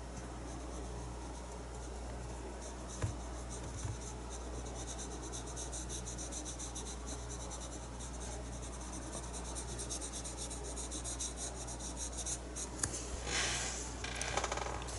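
Paintbrush bristles scratching and rubbing across the painting surface in quick, repeated short strokes, getting louder near the end, over a steady low hum.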